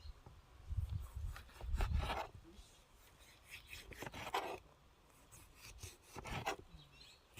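A handful of irregular scraping or rubbing strokes, each under a second long, a second or two apart, with a low rumble under the first two.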